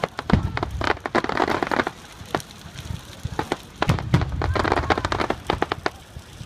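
Large bonfire crackling, with many irregular sharp pops.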